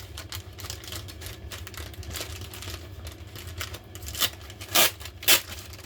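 Small parts of a Makita DTD154 impact driver being handled during reassembly: light clicks and rattles of plastic and metal, with three sharper clicks in the second half.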